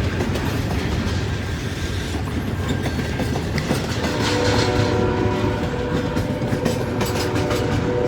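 Long freight train's cars rolling past with a steady rumble and wheels clicking over the rail joints. About four seconds in, a steady ringing tone of several notes joins the rumble.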